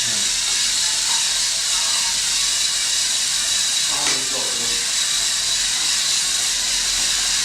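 Home-built robotic vacuum cleaner running: its suction fan gives a steady hiss with a thin high whine. Faint voices about four seconds in.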